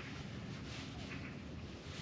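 Steady wind noise with a low rumble on the microphone, swelling and easing a little.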